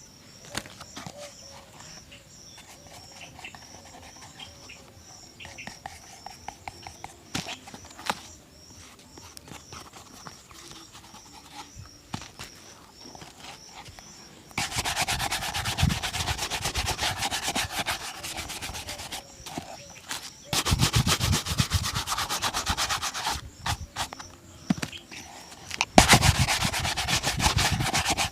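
Shoe brush scrubbing fast across a shoe in three loud spells of a few seconds each, after a stretch of quieter scattered taps and light rubbing.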